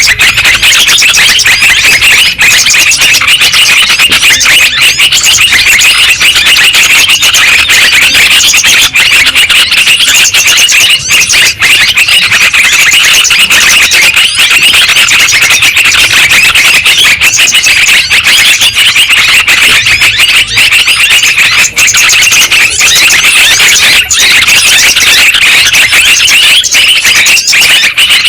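Yellow-vented bulbuls (trucukan) chattering in a dense, loud, unbroken mass of high calls, a bird-lure recording meant to set caged or wild bulbuls singing.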